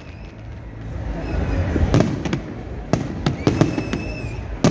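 Fireworks going off: a rumbling, crackling haze, then from about two seconds in a run of sharp bangs several times a second.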